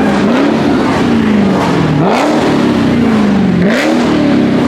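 A car engine being revved over and over, about three times: each rev climbs quickly and then falls back slowly toward idle before the next.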